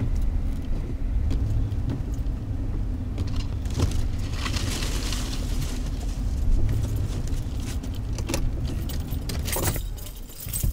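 Car driving slowly through deep snow, heard from inside the cabin: a steady low rumble of engine and road, with light jangling and small clicks and rattles throughout. A hiss swells for a couple of seconds around the middle, and the rumble fades away near the end.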